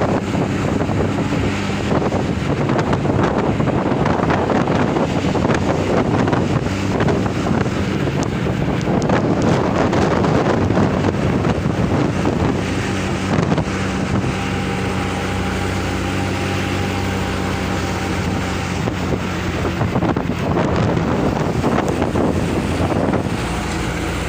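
A truck's engine runs steadily under way, with a constant hum through the middle, mixed with loud wind buffeting the microphone and road noise.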